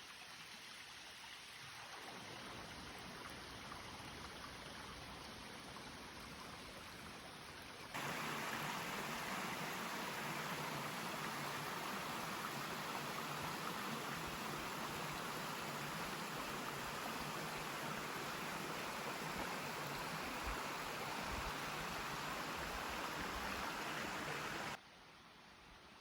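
Stream water rushing steadily over rocks, an even wash of noise. It jumps louder about a third of the way in and drops off abruptly near the end.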